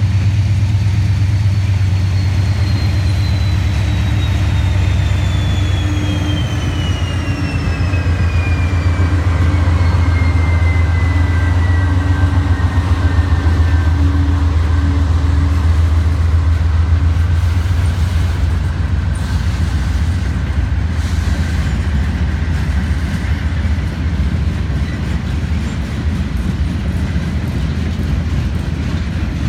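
Freight train passing behind GE C40-8 diesel locomotives: a deep, steady engine drone with a slowly falling whine over the first half. Then covered hopper cars rolling by with rumble and wheel clatter on the rails.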